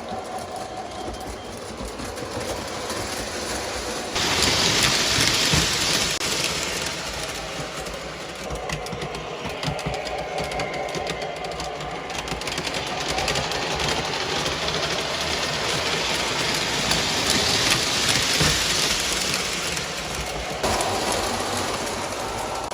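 Model trains running on the layout: the electric motors whirring and the wheels clattering along the track. The sound changes abruptly about four seconds in and again near the end.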